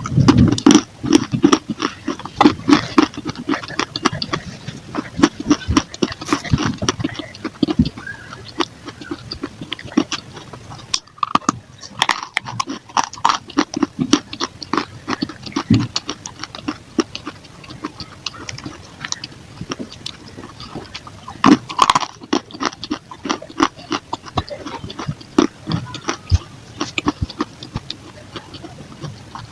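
Dry clay balls and clay pot pieces being bitten and chewed, sped up: a dense, fast run of sharp crunches and cracks, with a brief break about eleven seconds in.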